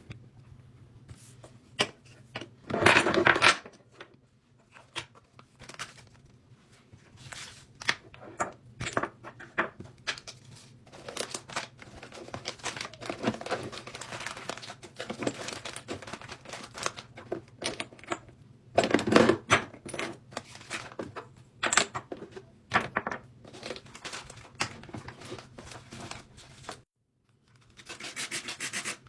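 Makeup and skincare products being handled and set into a mini fridge: a string of clicks and taps from plastic containers, with stretches of rustling and crinkling packaging.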